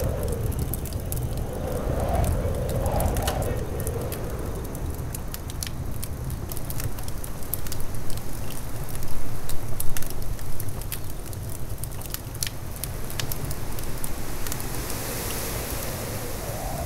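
Fire crackling with many sharp pops over a steady low rumble, loudest about halfway through. The sound comes from sawdust-like combustibles catching fire around a red-hot raku tea bowl during the reduction stage of the firing.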